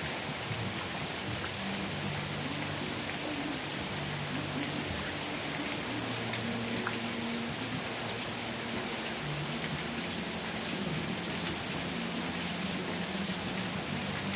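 Steady rain falling, an even, continuous hiss, with a low hum underneath that shifts in pitch every second or two.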